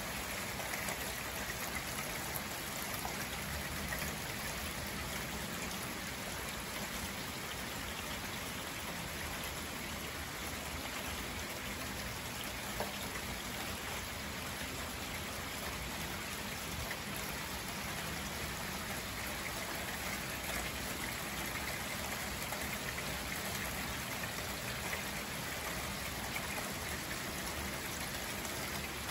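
Steady rain falling: an even, unbroken hiss of drops, with one brief click about halfway through.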